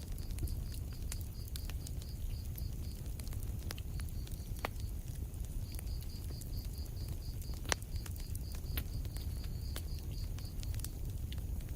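Wood fire burning in a fireplace: a low rumble of flames with irregular small crackles and pops, one sharper pop about two thirds of the way through.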